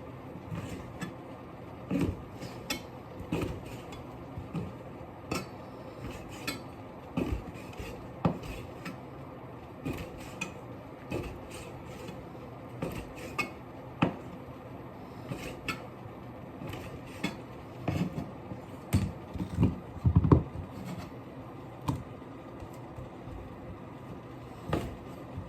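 Kitchen dishes and utensils clinking and knocking irregularly during food preparation, with a cluster of louder knocks near the end, over a steady background hum.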